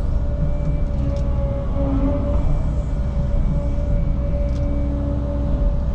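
Cat 306 mini excavator's diesel engine running steadily, with a steady whine over its low hum.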